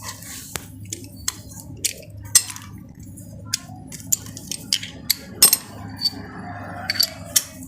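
Steel hand wrenches clinking and clattering against each other and against metal: an irregular string of sharp metallic clicks, some ringing briefly, the loudest a little over two seconds in and about halfway through.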